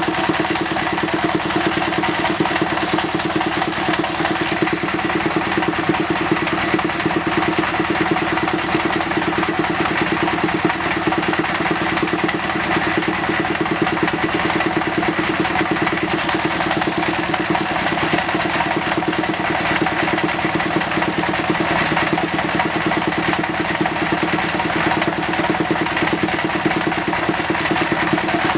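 A motor-driven machine running steadily at an even speed, with a fast, even pulse and a steady hum.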